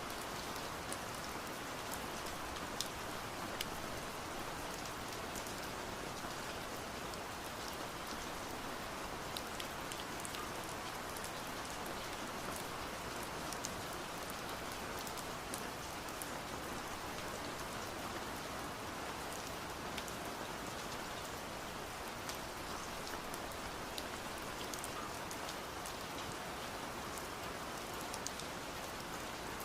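Steady rain heard from indoors, a muffled even hiss, with frequent sharp ticks of drops tapping on window glass scattered through it.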